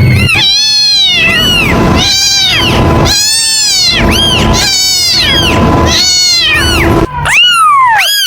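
Kitten meowing over and over, about seven or eight loud, high meows in quick succession, each rising and then falling in pitch.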